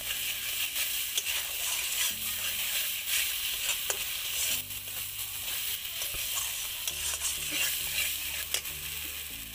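Spice paste with green peas sizzling as it fries in oil in a metal kadai, while a metal spatula stirs and scrapes it against the pan with scattered clicks. This is the masala being fried down in the early stage of a rohu fish curry.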